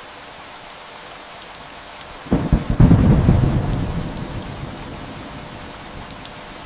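Steady rain with a thunderclap about two seconds in: a sharp crack followed by a low rumble that slowly dies away under the rain.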